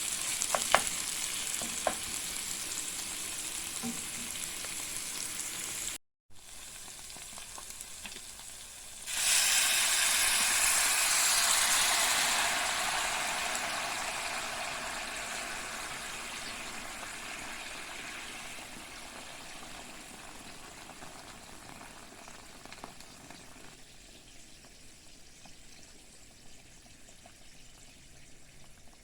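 Food frying in a hot pan, sizzling steadily, with a few sharp clicks of a utensil stirring. After a brief cut, something is added to the pan about 9 s in and the sizzling suddenly jumps loud. It then slowly fades away.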